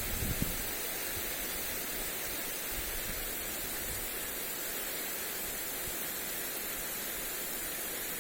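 Lawn sprinkler spraying water onto grass, a steady hiss.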